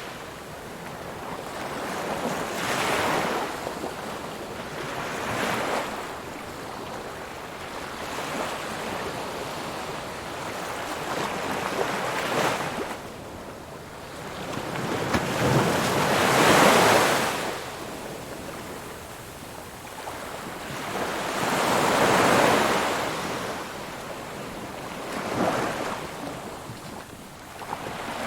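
Ocean waves breaking and washing on a shore, surging and falling away every few seconds, the loudest about halfway through.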